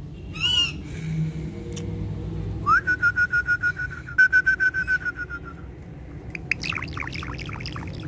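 Ringneck parrot calling: a short wavering call about half a second in, then a long held whistle with a fast rattle running through it for about three seconds, and a quick run of chirps near the end.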